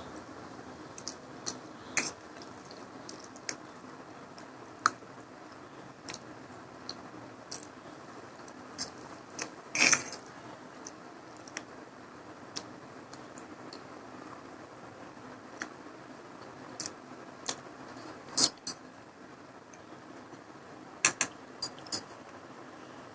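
Irregular light clicks and clinks of an eating utensil against a bowl of Maggi noodles during eating, over a steady low hiss. A longer, louder burst comes about ten seconds in, another sharp one near eighteen seconds, and a quick run of clinks near the end.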